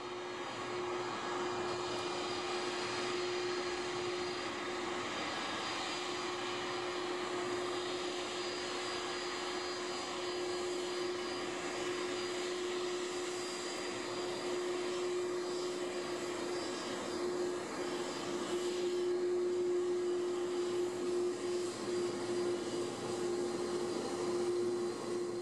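Jet airliner engines running at low thrust as the aircraft taxis: a steady hum with one constant tone, growing a little louder and more uneven in the last few seconds.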